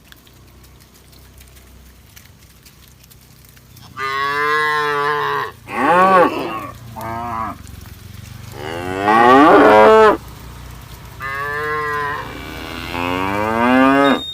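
Cattle mooing: after a few quiet seconds, a string of about six loud moos, some short and some drawn out, with the pitch bending within each call.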